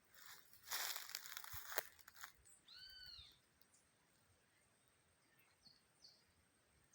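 Faint outdoor nature sound: about two seconds of rustling with a few sharp clicks, then one short arched call that rises and falls, and faint bird chirps near the end.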